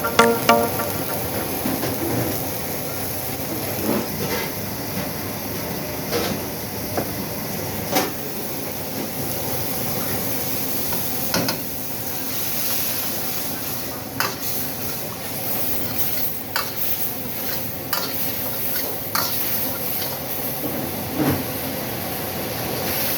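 Food sizzling in a hot pan as it is stir-fried, with a steady hiss and a spatula knocking and scraping against the pan now and then.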